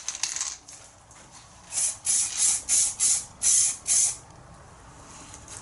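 Aerosol can of U-Pol etch primer spraying in short bursts: a hiss tailing off in the first half-second, then about seven quick squirts in a row, each a fraction of a second long.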